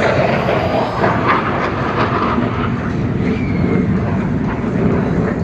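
Steady, loud jet engine noise from the Thunderbirds' F-16 fighter jets flying past.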